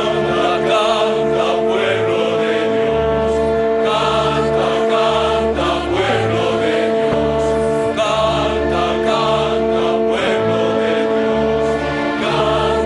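A choir singing sacred mission music in held chords over an orchestral accompaniment, with the bass line moving to a new note about every two seconds.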